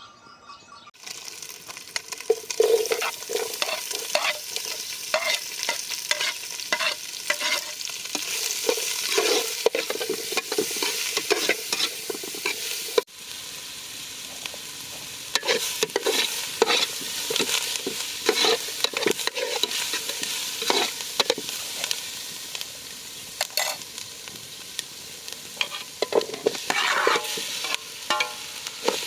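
Food frying and sizzling in a pan while a spoon or spatula stirs it, with repeated scrapes and knocks of the utensil against the pan. It cuts off abruptly about halfway through and starts again.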